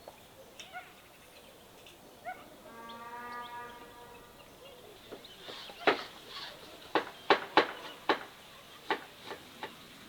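A farm animal's call, one steady bleat about a second and a half long, then a run of about eight irregular sharp knocks over the last few seconds.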